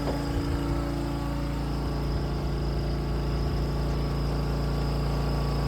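Small engine-driven water pump running steadily at constant speed, pumping water out of a sunken sailboat.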